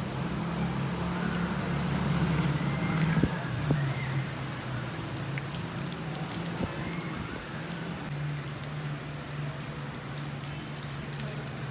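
Steady rain falling on leaves, with occasional single drops ticking, over a steady low hum.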